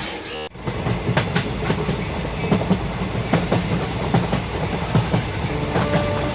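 Train running along the platform, wheels clattering over rail joints with a steady rumble. A few held tones come in near the end.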